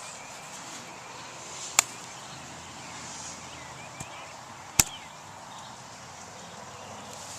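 Two sharp clicks, about two and five seconds in, with a fainter tick between them, over a steady outdoor background with faint high chirps.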